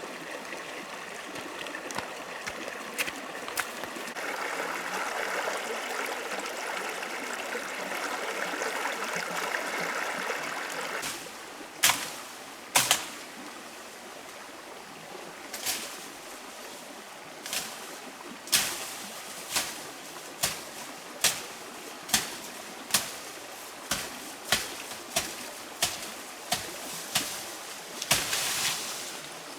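Steady rushing of flowing water for the first third. Then a series of sharp knocks, one or two at a time at first and about one a second near the end, over a quieter background of running water.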